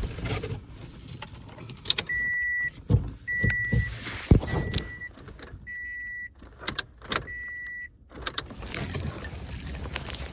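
Car's electronic warning chime beeping five times, each beep about half a second long and a little over a second apart, with clicks and a few dull knocks between them.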